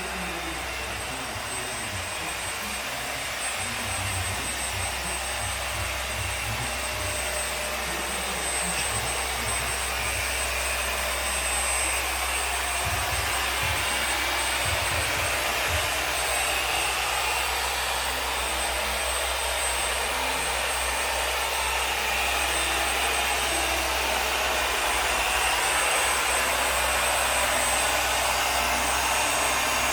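A steady rushing, hissing noise, like strong moving air, getting slightly louder over the stretch.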